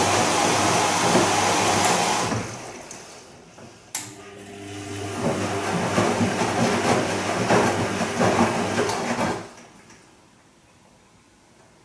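Bosch Serie 2 Vario Perfect washing machine running on its silk programme: rushing water noise over a low hum fades away, a click sounds about four seconds in, then a second churning rush stops suddenly, leaving only a faint hiss.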